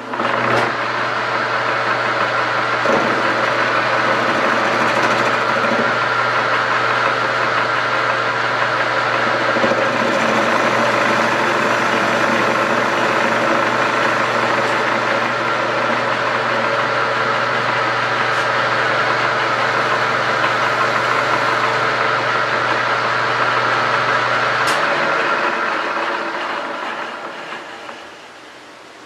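Metal lathe with a 4-jaw chuck starting up and running steadily while facing off the end of a metal bar. Near the end the motor's hum cuts out and the spindle spins down over a few seconds.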